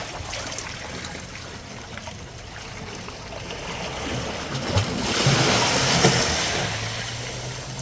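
Sea water washing against the rocky shore, with a wave surging in louder about five seconds in, then easing off.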